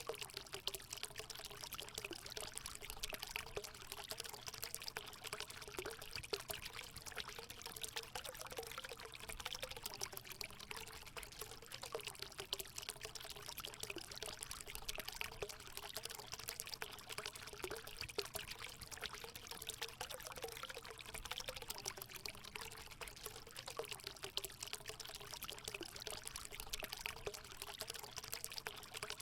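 Water running into a hot spring, pouring and trickling steadily.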